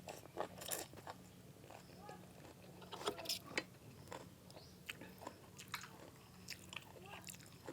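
A person chewing and biting food close to the microphone: irregular wet mouth sounds with short crunchy clicks.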